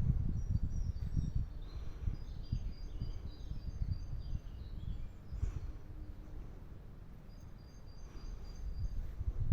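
Small birds chirping and singing in short high phrases over an uneven low rumble, which is louder at first and eases off after a few seconds.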